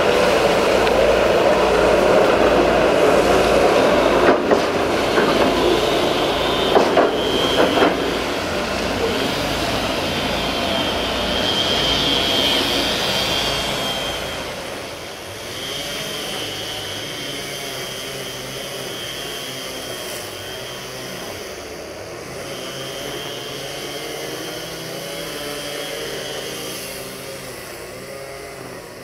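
Rail-laying work train of flat wagons loaded with rails rolling slowly past, wheels rumbling with a few sharp knocks over rail joints. About halfway through it drops to a quieter, steady rolling sound with a thin high whine.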